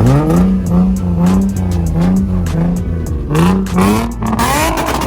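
Car engine revved hard: it rises quickly at the start, then is held near high revs with repeated small surges, and climbs again near the end.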